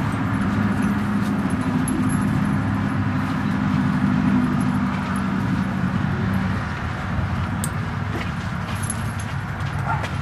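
Steady engine hum under a rushing noise, the hum fading about six to seven seconds in.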